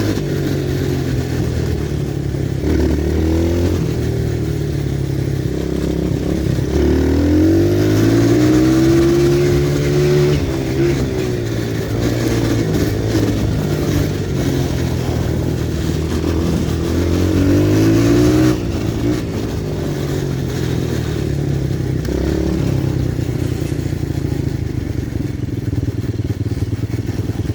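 Pit bike engine running while being ridden, its pitch rising and falling again and again as the throttle is opened and eased off, with the longest climbs about seven and sixteen seconds in.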